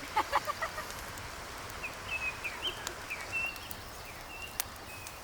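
Birds calling: a quick cluster of harsher notes at the start, then a run of short, high chirps, over a steady low hiss with a few sharp clicks.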